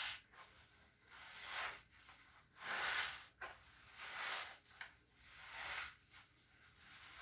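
Wet cleaning strokes: about five rhythmic rubbing, squishing swishes, roughly one every second and a half, as a soaked cleaning tool is worked over a surface.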